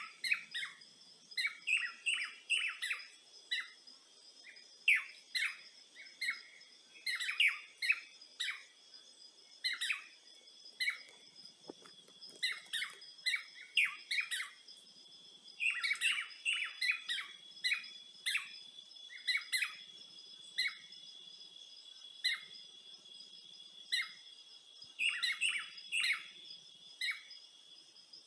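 Birds chirping: many short, quick calls in clusters, over a steady high-pitched insect trill.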